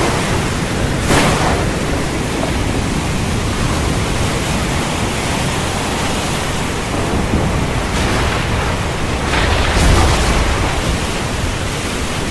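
Heavy rain falling steadily. There are brief sharp louder hits about a second in and again near ten seconds, and a low rumble of thunder swells around ten seconds in.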